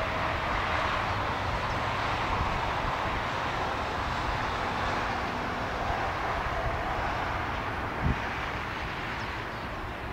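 Rolling noise of a passing train fading slowly into the distance, over the tyre noise of cars on the road. A brief thump about eight seconds in.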